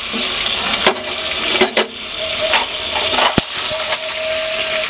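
Chicken and onions sizzling in hot oil in an aluminium pot, with a steel slotted spatula clinking and scraping against the pot several times.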